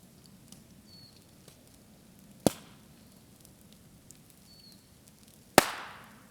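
Bamboo in a bonfire bursting with two loud bangs about three seconds apart, the second trailing off over half a second, with faint crackling between them. The sealed sections of the culm split open as the moisture inside heats and expands.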